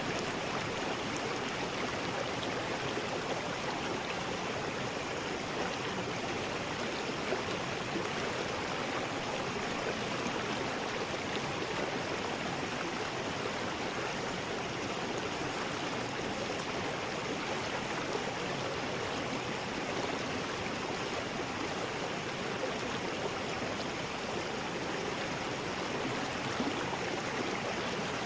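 River rapids: water rushing steadily over rocks in an even, unbroken roar.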